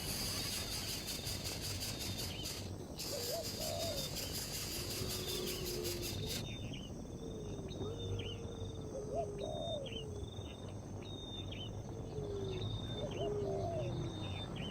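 Wild birds calling: repeated low, sliding hoot-like notes and higher short chirps about once a second. An insect-like high hiss runs underneath and cuts off suddenly about six and a half seconds in.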